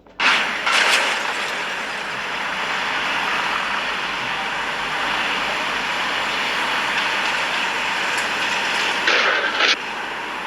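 Steady, loud rushing vehicle noise that starts abruptly, with a brief louder, higher-pitched burst about nine seconds in.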